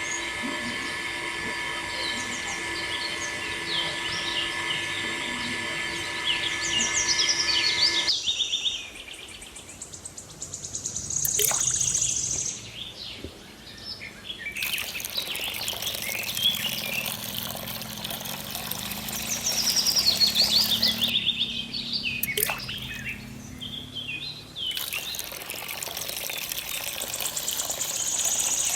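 Birds chirping and calling, many short high chirps. For the first eight seconds a set of steady tones sits under them, and the sound changes abruptly at several cuts.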